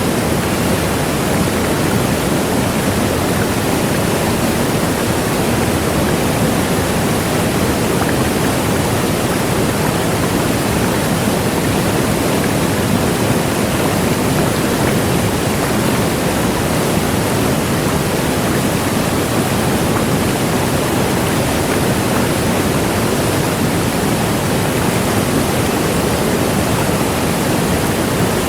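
Large waterfall, a steady loud rush of falling water with no changes.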